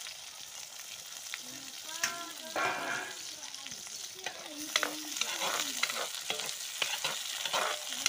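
Sliced red onions and greens sizzling steadily in hot oil in a wok. From about halfway, a spatula stirs and scrapes against the pan with sharp clacks.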